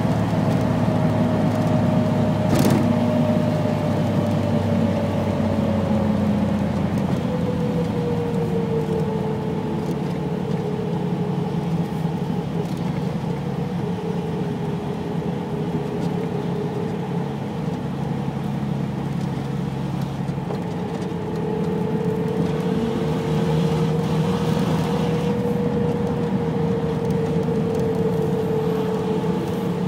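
Triumph GT6's straight-six engine running under way, heard from inside the cabin over road and wind noise. Its note falls steadily over the first several seconds, holds low, then climbs a little and gets louder about two-thirds of the way in. A single sharp click sounds a few seconds in.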